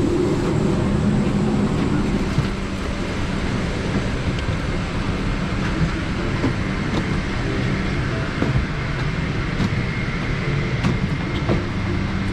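Steady cabin drone of a parked airliner during boarding, the air-conditioning and ventilation running, with a few light clicks and knocks.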